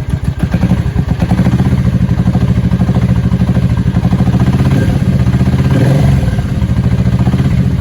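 Suzuki Boulevard motorcycle engine given throttle from idle and held at raised revs, with a brief further rise and fall around six seconds in, then dropping back to idle near the end. The owner says it sometimes dies when given gas since being ridden in a heavy rainstorm, and wonders whether the fuel pump is the cause.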